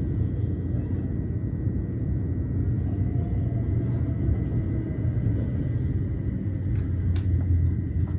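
Steady low rumble of an electric passenger train heard from inside the carriage while it runs, with a faint steady high tone over it. A single sharp click comes about seven seconds in.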